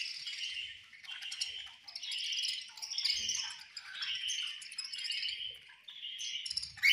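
Budgerigars chattering and chirping together in overlapping bursts, with brief lulls between them and a louder burst at the very end.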